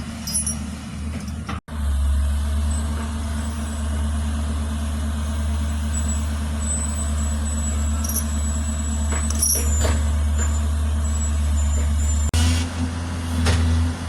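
Heavy diesel engine of earthmoving machinery running steadily with a deep, even hum, with a few short metallic clanks and a faint high whine. The sound drops out abruptly about one and a half seconds in and again near the end.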